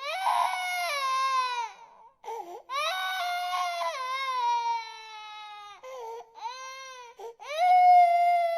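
Infant crying: long wails that each slide down in pitch, broken by short gasping breaths. Three wails, the loudest starting near the end.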